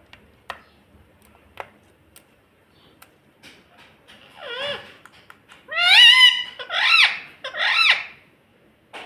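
Pet ringneck parakeet calling: one call about four and a half seconds in, then three loud, high calls in quick succession, each rising and falling in pitch. A few faint clicks come before the calls.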